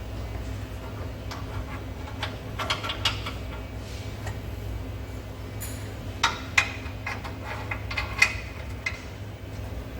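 Several sharp metallic clinks and taps, a few close together about three seconds in and the loudest ones about six and eight seconds in, over a steady low hum.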